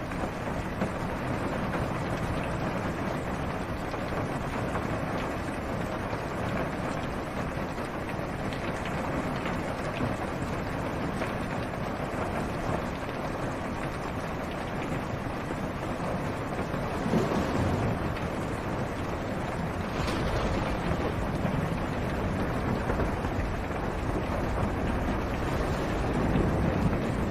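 Steady rain falling on a car's roof and windshield, heard from inside the car as a dense, muffled patter. Low rumbles of distant thunder swell up about two-thirds of the way through and again near the end.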